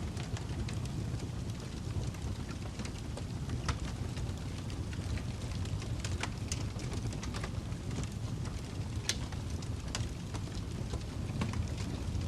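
Fireplace ambience: wood fire crackling, with irregular sharp pops over a steady low rumble.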